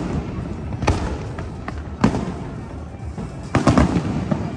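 Fireworks going off: single sharp bangs about one and two seconds in, then a rapid cluster of several bangs near the end.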